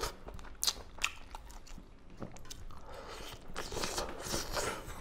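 Close-miked chewing and biting of duck curry and rice eaten by hand, with irregular wet smacks and crunches.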